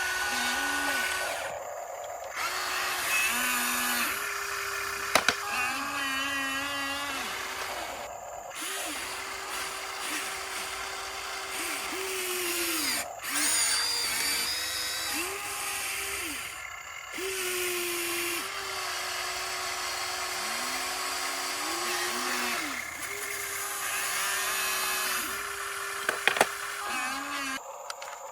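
Electric motors of a radio-controlled construction model whining, their pitch stepping up and down every second or two as the machine works under changing load. Two short sharp knocks come about five seconds in and near the end.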